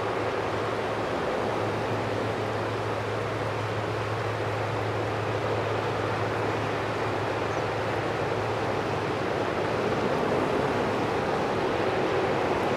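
Jet engines of a twin-engine Boeing wide-body airliner running, heard as a steady rushing noise with a low hum underneath, growing a little louder near the end.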